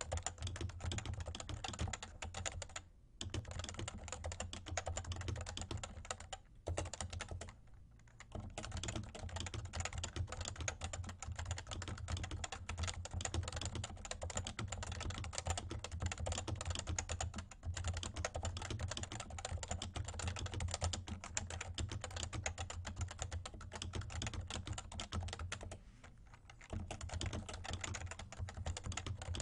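Fast, steady typing on a Realforce R2 TKL Topre keyboard with light 30 g keys: a dense run of soft keystroke clicks, broken by short pauses about three, six and a half, eight and twenty-six seconds in.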